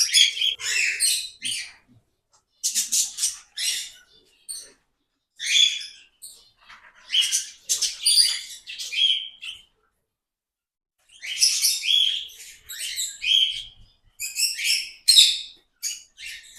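Small aviary birds chirping and twittering in quick high-pitched bursts, with a break of about a second and a half partway through.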